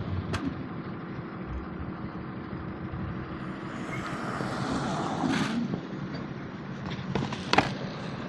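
Street traffic noise heard while riding, with a steady low hum. A vehicle swells past about five seconds in, and a few sharp clicks come near the end.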